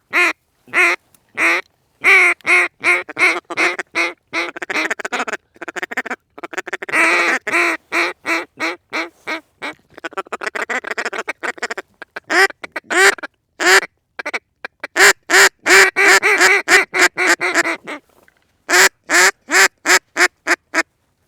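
A hand-blown duck call sounding a long string of hen-style quacks, loud and close, with a stretch of fast chattering notes in the middle and several quick runs of sharp quacks about three or four a second near the end.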